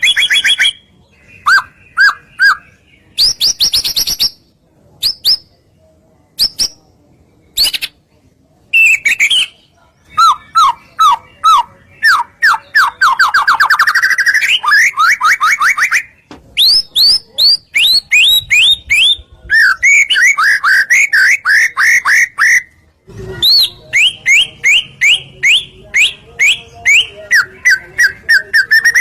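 White-rumped shama (murai batu) singing in loud bursts of rapid, repeated chirps and quick note series, with short pauses between phrases.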